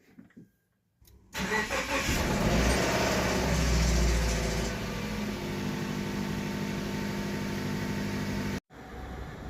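Freshly rebuilt Subaru FB25 2.5-litre flat-four engine starting about a second in and running at a raised idle. After a few seconds it settles to a steadier, quieter idle, then the sound cuts off abruptly near the end.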